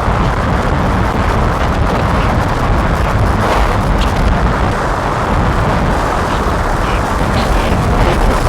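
Dense, distorted noise drone from a modular synthesizer run through distortion and filter pedals: a steady rumbling, crackling wash with no breaks.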